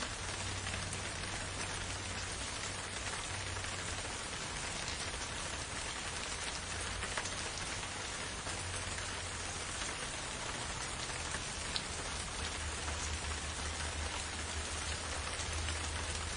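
Steady rain falling in a forest: an even, dense hiss with scattered individual drops ticking through it, over a low rumble underneath.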